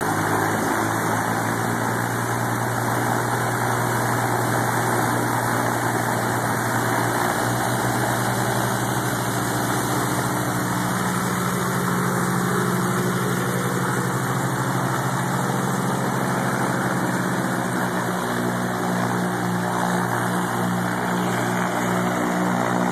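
Piper PA-31-350 Chieftain's turbocharged six-cylinder Lycoming piston engines idling steadily after start-up.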